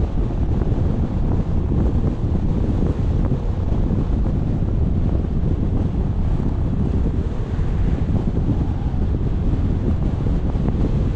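Wind buffeting the camera's microphone, a loud, steady low rumble with no break.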